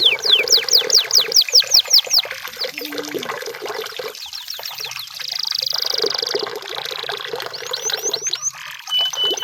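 Canary singing: a run of quick downward-sliding notes, about five a second, then a fast high trill, more sliding notes and a short steady whistle at the end.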